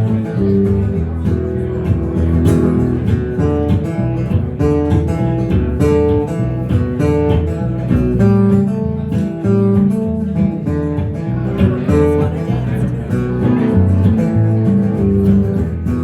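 Band music led by strummed acoustic guitar, with a steady beat and no singing.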